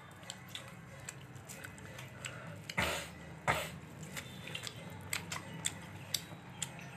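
A person chewing food close to the microphone, with many small wet clicks and lip smacks, and two short coughs about three and three and a half seconds in.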